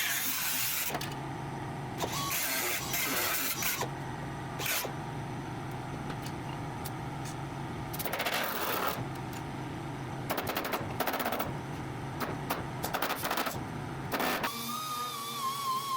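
Intermittent bursts of a power tool cutting into the sheet-metal inner rocker panel, over a low hum that starts and stops several times. Music comes in near the end.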